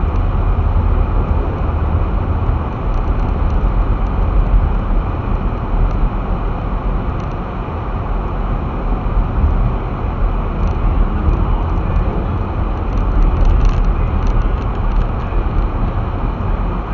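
Car driving along a snow-drifted street: a steady low rumble of engine and tyres on snow. A few faint light ticks come in the latter half.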